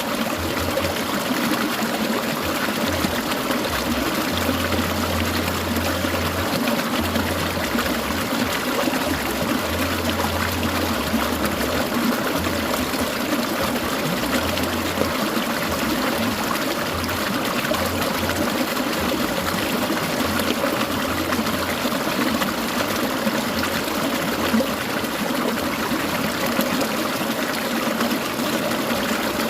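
Clear mountain stream trickling and babbling over rocks, a steady, unbroken rush of water.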